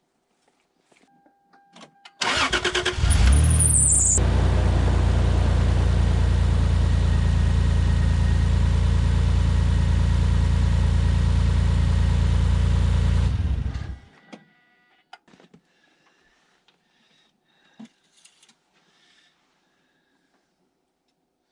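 2003 Toyota Tacoma's 3.4-litre V6 started in sub-zero cold right after an oil refill: brief starter cranking about two seconds in, catching at once into a steady idle. It is switched off after about ten seconds, and faint clicks and handling sounds follow.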